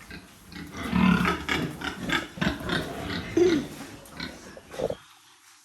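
Pigs grunting and squealing in their pens: a dense run of short calls with one higher squeal about three and a half seconds in, cutting off abruptly near the end.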